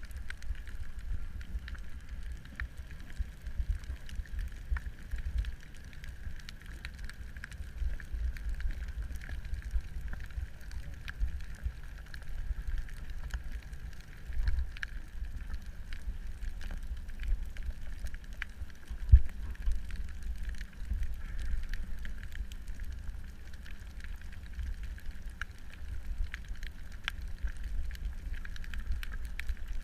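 Underwater ambience picked up by a camera in its housing: a low, wavering rumble of water movement with scattered faint clicks of reef crackle and one sharper knock about two-thirds of the way through.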